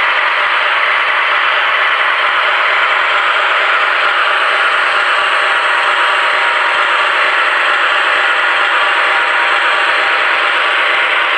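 Scale-model freight train running along the track: a steady rattling hiss of motor and wheels with no change through the stretch.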